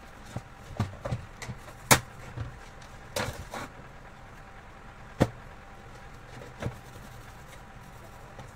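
Scattered knocks and clinks of tools and parts being handled while working on an espresso machine. There are about seven separate hits, the loudest about two seconds in, and a short scraping rustle around three seconds in.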